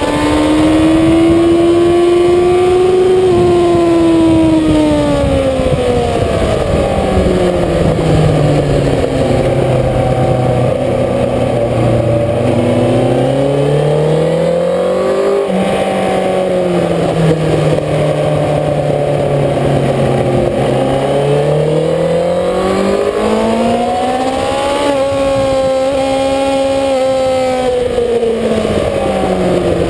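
Sport motorcycle engine heard from onboard at speed, the revs climbing and falling again and again, with stepped changes in pitch at the gear changes and a sudden jump about halfway through, over a steady rush of wind.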